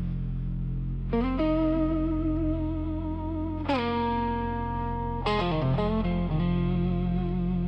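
Instrumental song intro: electric guitar with effects, slow chords struck about every one and a half to two seconds and left to ring over a steady low bass drone.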